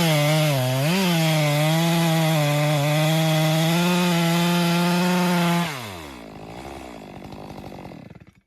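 Two-stroke STIHL chainsaw running at full throttle in a cut, its pitch dipping briefly under load about a second in. Near six seconds in the throttle is released and the engine winds down to a quieter, lower run, then the sound cuts off near the end.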